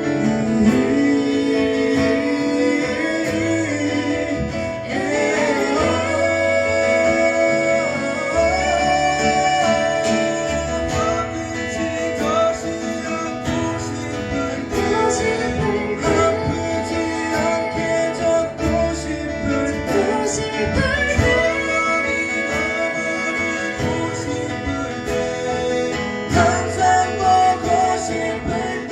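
Live band playing a pop ballad, with acoustic guitar and bass under a lead melody line.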